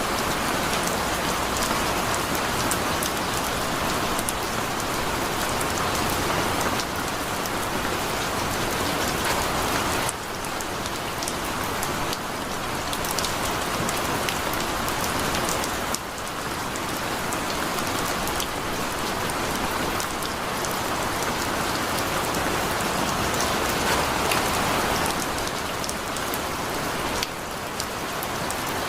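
Heavy rain falling steadily: a dense, even hiss full of fine drop ticks, with small dips in level about ten, sixteen and twenty-seven seconds in.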